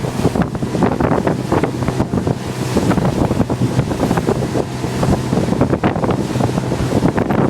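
Wind buffeting the microphone on a moving motorboat, with water rushing and slapping against the hull and a steady low engine hum underneath.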